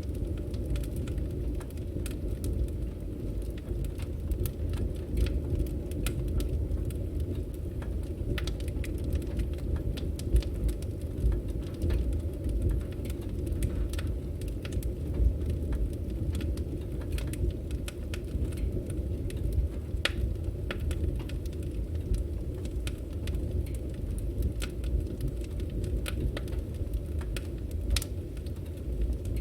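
Wood fire burning, a steady low rumble of flames with frequent irregular crackles and pops from the burning logs.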